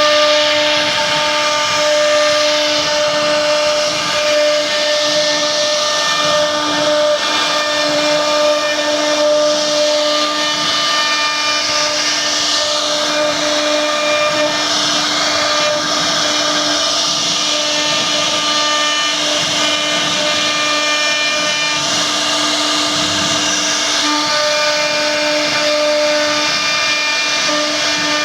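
CNC machine running steadily: a whine made of several steady tones that drop out and come back at times, over a continuous hiss.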